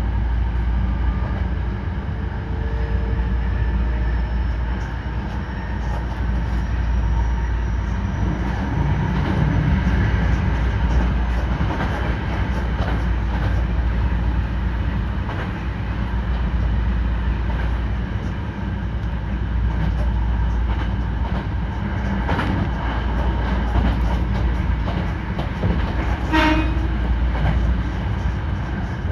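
Hankyu 9300 series electric train running, heard from inside the car: a steady rumble of wheels on rail with scattered clicks. About 26 seconds in there is a short high tone.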